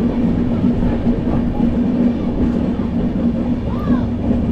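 Running noise of a moving passenger train heard from inside a sleeper-class coach: a steady rumble of wheels on the rails with a continuous low hum.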